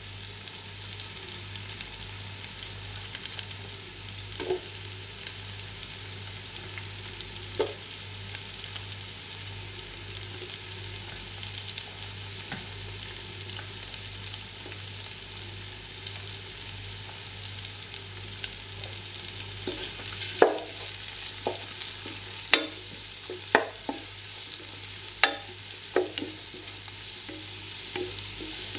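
Minced garlic and sliced onions sizzling in hot oil in a pan, a steady frying hiss. A spatula stirring and knocking against the pan gives a couple of sharp knocks early on and a run of them about two-thirds of the way through.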